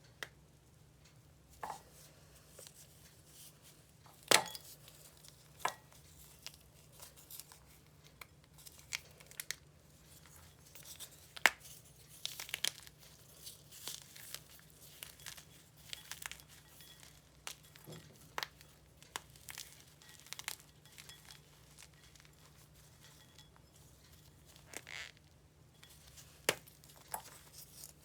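Chalk being crushed: irregular crunches and sharp crackles, with two louder snaps about four and eleven seconds in.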